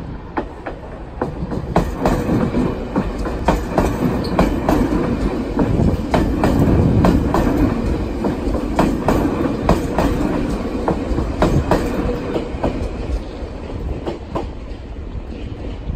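Meitetsu 5000 series electric train running past at close range, its wheels clacking over the rail joints in a long run of sharp clicks over a steady rumble. It grows louder toward the middle and eases off as the train moves away.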